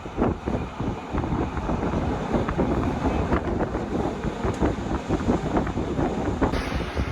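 A Rhaetian Railway regional train running: a steady rumble with irregular clatter from the wheels and cars, mixed with wind noise on the microphone.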